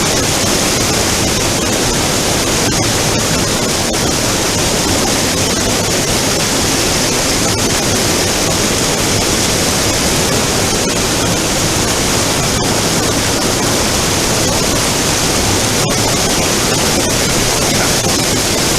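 Mountain stream's flowing water, a loud, steady rush.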